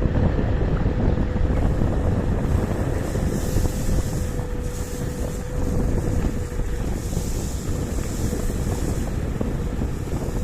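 Wind rumbling on the microphone of a KuKirin G2 electric scooter riding at speed, with a steady hum from the scooter's electric motor.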